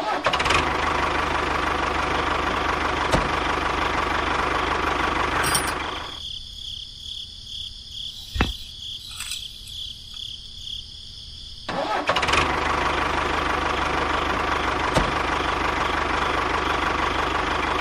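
Tractor engine running steadily, cutting out about six seconds in and starting up again about twelve seconds in. A single sharp click comes in the quiet gap between.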